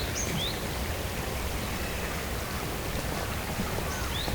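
Steady rushing of running water, with a small bird's short, high, rising chirps just at the start and again near the end.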